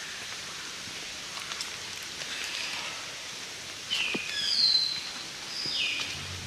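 Forest ambience with a steady soft hiss, and about four seconds in, birds calling: short whistles that slide downward and one high held whistle, the loudest moment a little after.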